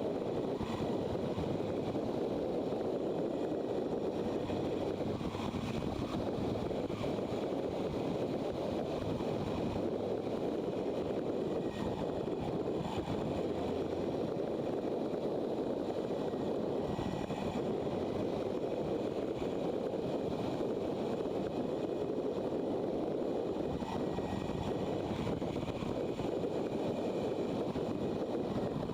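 Motorcycle running at a steady cruise, engine note mixed with wind rushing over the microphone.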